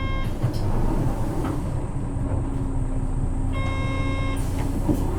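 Isuzu bus's 6HK1 inline-six diesel engine running steadily under way, heard from inside the cabin. A short electronic tone sounds at the very start and again about three and a half seconds in.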